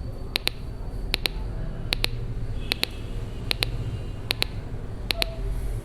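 Small loudspeaker driven by a two-transistor (547 NPN / 557 PNP) capacitor-based oscillator, ticking in sharp paired clicks a little more than once a second. It oscillates because its two probes sit in water, which conducts between them and sets off the rain alarm.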